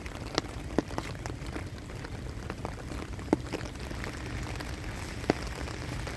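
Steady rain with scattered sharp drips striking close by; the strongest come about three and five seconds in.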